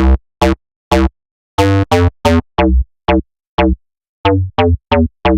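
Sine-based FM plucked bass patch on Arturia's Pigments software synth, playing a riff of about fourteen short staccato notes with sharp attacks and a brief pause partway through. Its low-pass filter is swept by an envelope, so each note's brightness falls away quickly.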